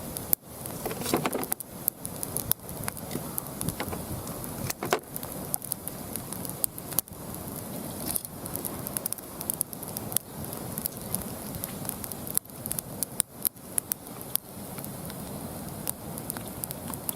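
Mixed hardwood burning on an open fire, crackling steadily with frequent sharp pops.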